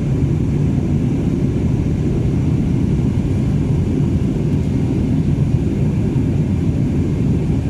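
Airbus A330 heard from inside the cabin: a steady, deep rumble of its jet engines and the rushing air, with no change in pitch or level.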